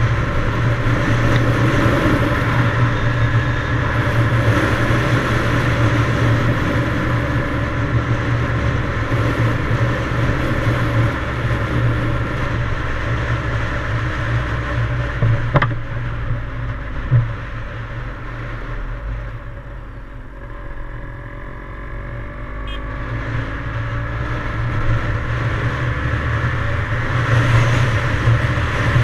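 Yamaha DT175's two-stroke single-cylinder engine running while the bike is ridden, with rushing noise over it. Two sharp knocks come a little past halfway. The engine then eases off and quietens for a few seconds, and picks up again toward the end.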